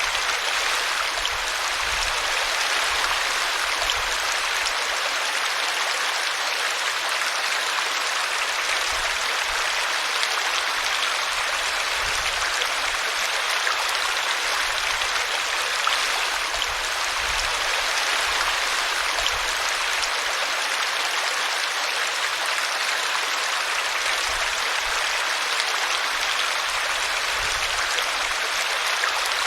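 Small brook running steadily, its water splashing and gurgling over a tree root.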